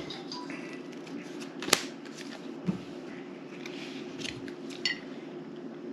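Playing cards being laid down and slid on a tabletop: a few separate taps and clicks, the sharpest about two seconds in, over a steady low hum.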